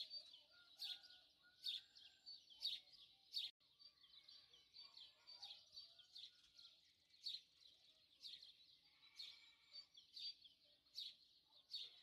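Faint birdsong: short high chirps repeated about once a second, with quieter warbling calls between.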